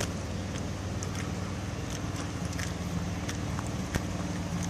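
An engine or motor running steadily nearby with a low, even hum, with faint short ticks or chirps scattered over it.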